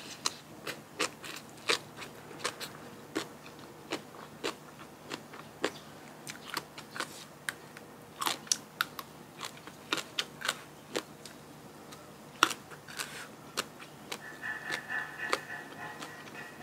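A person biting and chewing crisp food close to the microphone: sharp, irregular crunches, about one or two a second. Faint music comes in near the end.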